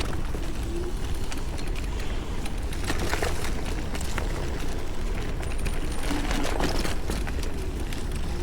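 Electric scooter ridden off-road, heard from a chest-mounted action camera: steady wind rumble on the microphone, with tyres crunching over dirt and frequent knocks and rattles from bumps in the trail.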